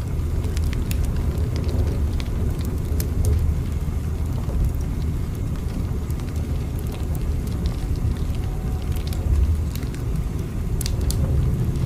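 Steady low rumble of a moving train, with scattered light clicks and crackles over it.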